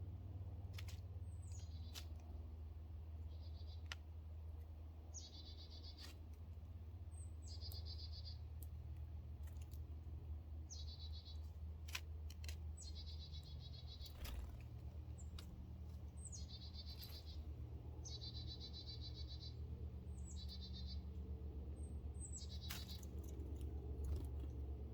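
A small songbird singing the same short song over and over, about every two seconds: a high slurred note followed by a fast trill. A few sharp clicks come between the songs.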